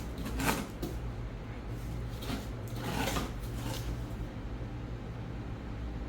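Spray paint can hissing in three short bursts in the first few seconds, over a steady low hum.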